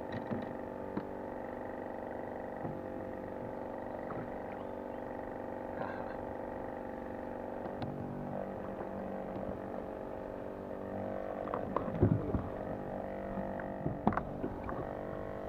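A boat motor running at a steady pitch, with a few short knocks and clatters near the end.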